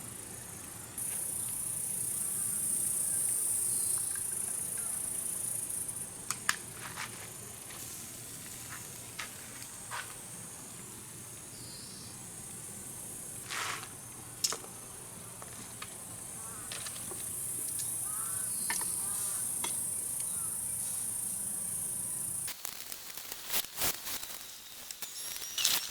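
Insects chirping: a high, steady buzz that swells in for a few seconds twice. Scattered sharp clicks fall between the swells, a cluster of clicks comes near the end, and a low hum underneath cuts off shortly before it.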